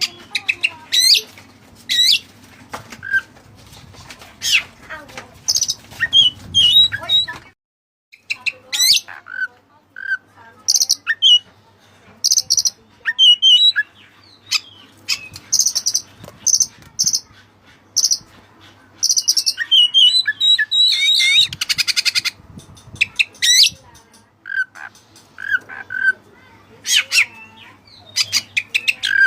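White-breasted Oriental magpie-robin (kacer dada putih) singing a varied song of quick whistles, chirps and sweeping notes in bursts, with a fast buzzy trill about two-thirds of the way through. Its song is laced with imitated cililin phrases.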